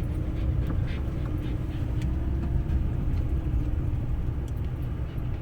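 A van driving along, with a steady low rumble of engine and road noise and a faint steady hum.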